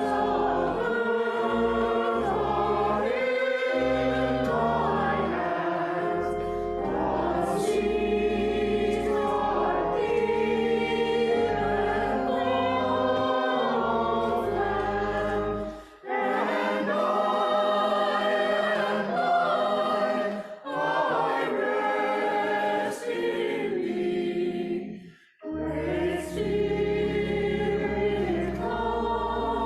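Church choir singing a slow folk hymn in several parts, with low sustained notes beneath. The singing breaks off briefly about halfway through and again near the end before resuming.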